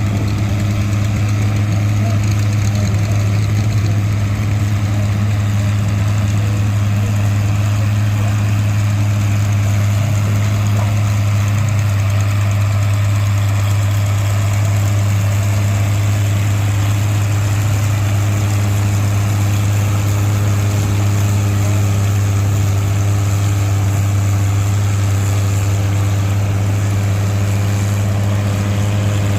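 An engine idling steadily at one even speed, a constant low hum with no revving.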